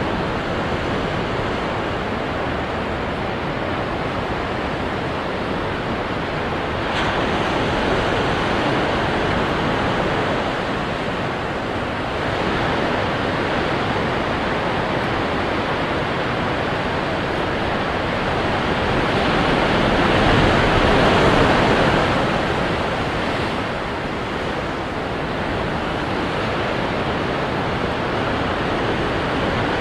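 Ocean waves breaking on rocks: a continuous rush of surf that swells and falls, loudest as a wave crashes about twenty seconds in.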